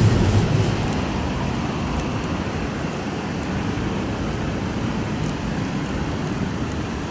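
Steady rushing noise of heavy rain and road traffic on wet city streets, slightly louder for about the first second.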